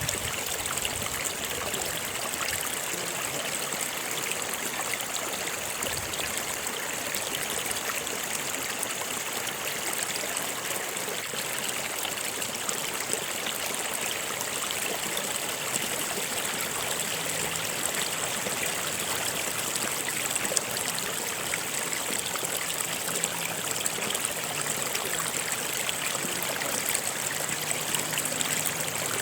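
A stream of running water flowing steadily, a continuous even rush and trickle.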